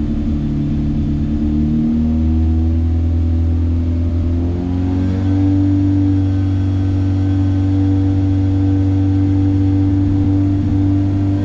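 Toyota Yaris four-cylinder engine held at raised revs, the pitch climbing steadily from about 2,200 rpm over the first five seconds and then holding near 2,900 rpm. Its exhaust is quietened by a homemade silencer made from a paint tin packed with scouring pads.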